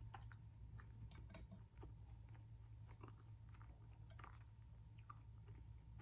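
Faint close-up chewing, with scattered small wet clicks and crunches of food in the mouth.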